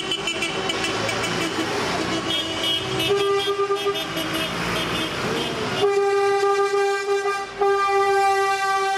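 Semi-truck air horns blowing: a short blast about three seconds in, then a long steady blast from about six seconds, broken once briefly near the end.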